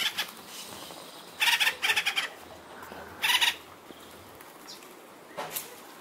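Harsh bird calls in loud, rapid bursts: three about a second and a half, two, and three seconds in, with a fainter one near the end. The calls come from birds mobbing a squirrel.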